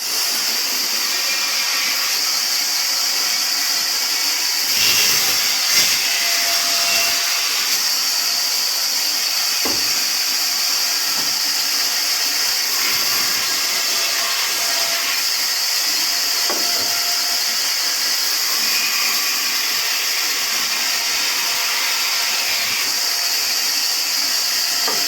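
Sawmill saw (aara machine) running steadily while cutting wood, a constant high, hissing machine noise.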